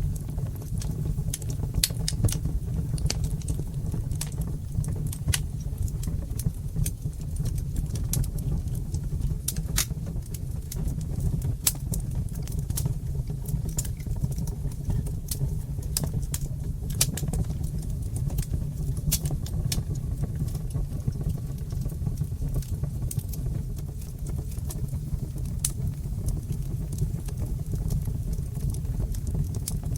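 Fire in a fireplace crackling: sharp, irregular pops and snaps, several a second, over a steady low rumble of the flames.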